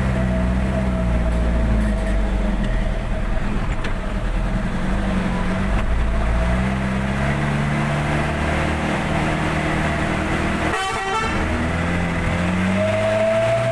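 Truck engine running under way, its pitch rising and falling several times as it speeds up and eases off, with one short sharp burst about eleven seconds in.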